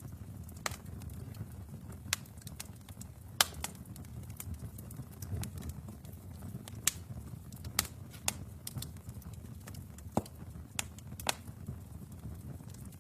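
Wood fire burning in a fireplace: a low steady rumble of flames with about ten sharp crackles and pops at irregular moments, the loudest a few seconds in.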